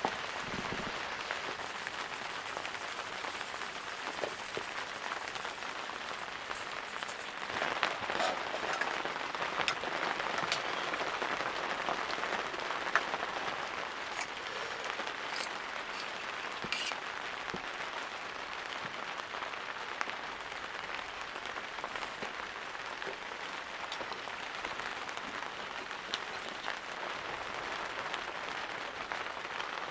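Steady rain falling, with scattered sharper drop hits through the downpour.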